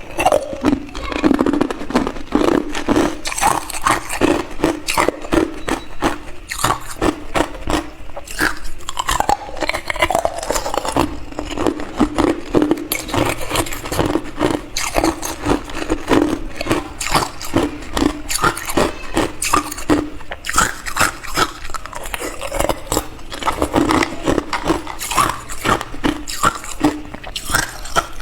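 Hard clear ice being bitten and chewed close to the microphone: a steady, unbroken run of loud crunching and cracking.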